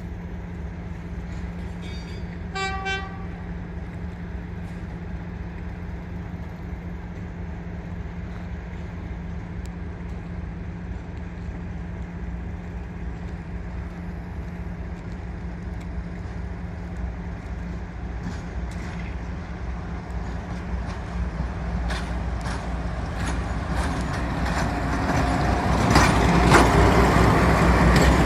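British Rail Class 42 'Warship' diesel-hydraulic locomotive with its engines running at a steady low hum and a short horn toot about three seconds in. From about twenty seconds in the engines grow steadily louder, with clanks and knocks near the end.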